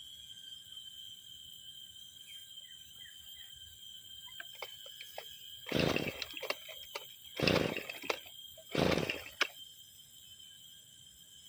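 Two-stroke brushcutter being pull-started: three pulls of the recoil starter cord about a second and a half apart, each a short noisy burst, without the engine catching. The engine is hard to start after six months unused.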